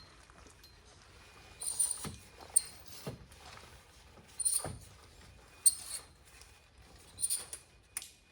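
Short bursts of rustling with sharp clicks, about six times, from gear being handled.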